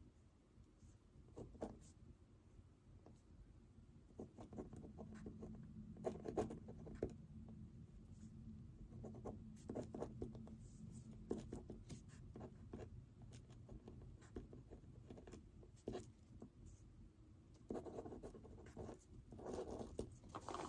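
Writing on paper by hand: short scratchy strokes come in irregular spurts with brief pauses between them, over a faint steady low hum.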